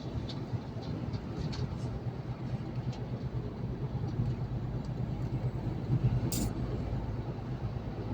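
Steady low drone of a truck's engine and tyres heard from inside the cab while driving, with a few faint ticks and one brief sharp noise a little over six seconds in.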